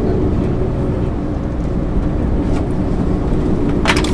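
MAN ÜL 353 intercity bus under way, heard from inside: a steady engine drone and road rumble. A brief sharp rattle near the end.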